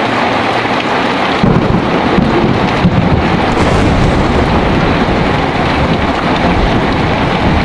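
Heavy rain pouring steadily, with a deep thunder rumble breaking in suddenly about a second and a half in and rolling on.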